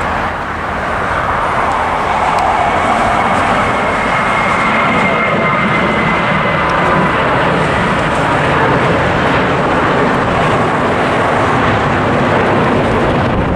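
Jet airliner taking off: its engines at takeoff power make a loud, steady rush, with a faint high whine through the middle that drifts slightly down in pitch.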